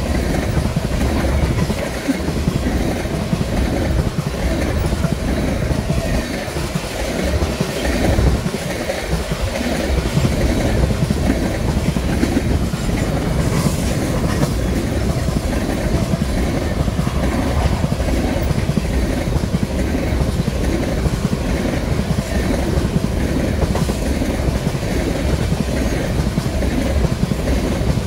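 Empty oil tank cars rolling past at about 50 mph: steel wheels running over the rails in a loud, steady rumble with rapid clicking of wheels over the track.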